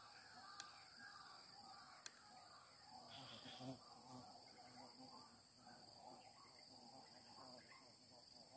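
Faint steady chirring of insects, crickets or similar, with two faint sharp clicks in the first two seconds and some faint scattered calls in the middle.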